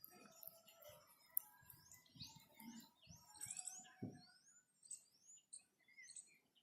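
Faint birdsong: many short, high chirps that sweep upward, repeated about every half second, with a few faint low knocks underneath.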